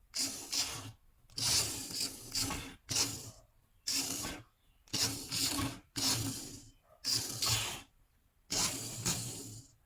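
A series of short rasping, rubbing bursts, about one a second, each lasting under a second with brief gaps between them.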